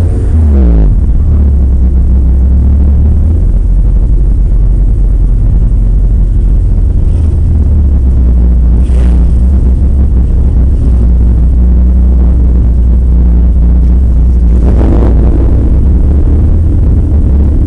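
Porsche 968's four-cylinder engine running, with a heavy low drone throughout. The engine pitch sweeps near the start and climbs again about fifteen seconds in.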